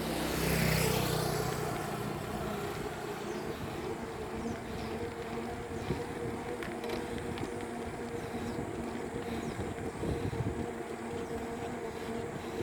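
Road traffic heard from a moving bicycle: a vehicle passes close about a second in, then steady road noise with a constant low engine hum and a few light clicks.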